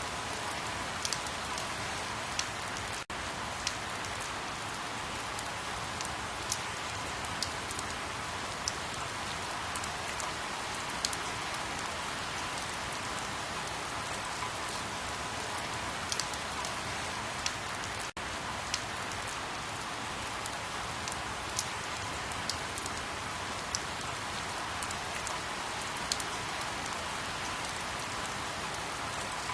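Steady rain falling, an even hiss with many individual drops ticking sharply. The sound cuts out for an instant twice.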